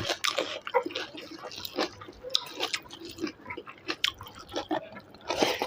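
Close-up eating sounds: chewing chicken wing, with wet smacks and clicks of the mouth coming at irregular intervals.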